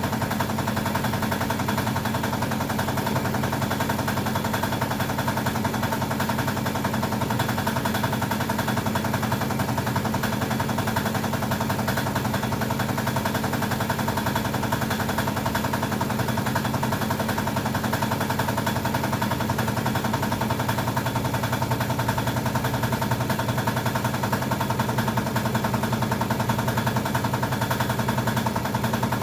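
Small engine running steadily with a fast, even chattering pulse, unchanged throughout.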